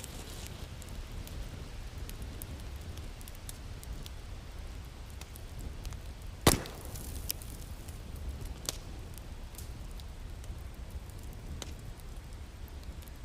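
Wood fire crackling in a fireplace over a low steady rumble, with scattered small snaps and one loud pop about halfway through.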